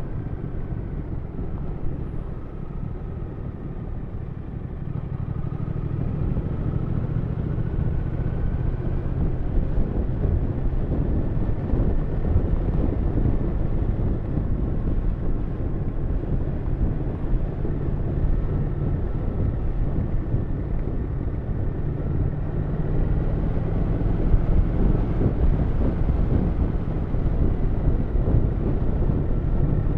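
Triumph Thruxton 1200's parallel-twin engine running while riding, mixed with wind and road noise; the engine gets louder a few seconds in as the bike picks up speed, then runs on steadily.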